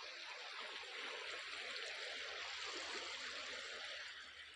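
River floodwater flowing fast past the village houses: a steady, even rush of water.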